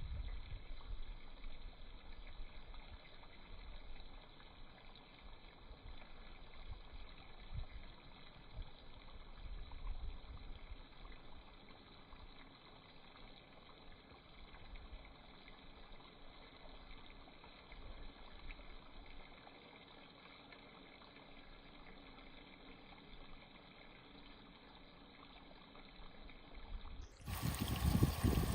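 Water running and trickling, likely over toy cars in a toy car wash, with uneven low knocks. Near the end a sudden, louder and brighter sound takes over.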